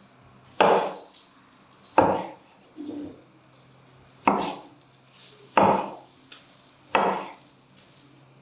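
Knife cutting through vegetables onto a wooden cutting board: five separate, sharp chops about one every second and a half.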